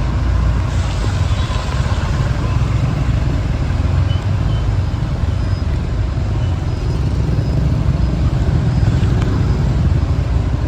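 Steady road traffic noise with a deep, constant rumble, on rain-flooded city streets.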